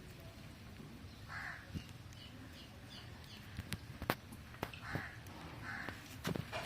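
A bird calling: three short calls, one about a second and a half in and two near the end, with a quick run of faint high chirps between them and a few sharp clicks.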